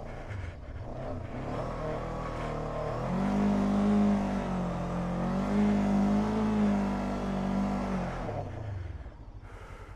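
Maverick 500 adventure motorcycle engine pulling through sand under steady throttle, its note rising about three seconds in, holding with small wavers, then dropping and fading near the end as the bike gets clear.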